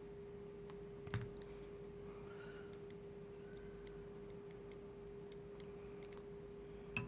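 Faint scattered clicks and light taps of small tools and wires being handled on a workbench, the sharpest about a second in and near the end, over a steady low hum.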